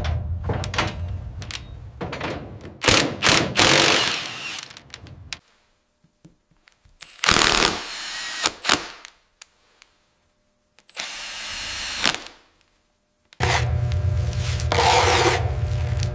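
Construction and renovation work sounds in separate short takes with dead silence between them: knocks and clicks with scraping first, two brief bursts of scraping or rubbing, then a steady rubbing or grinding with a low hum from about three seconds before the end.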